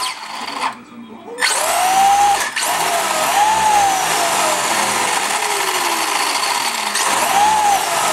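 Brushless electric motor of a radio-controlled stadium truck whining in throttle bursts, its pitch rising then falling with each burst, over a constant hiss. It cuts out briefly about a second in.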